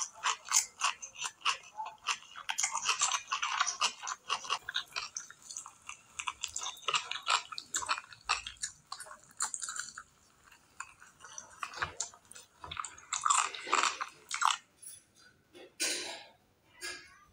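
Close-miked chewing of rice and curry eaten by hand, wet mouth clicks and smacks. The clicks come thick and fast for the first ten seconds or so, thin out, then return as a few louder bursts near the end.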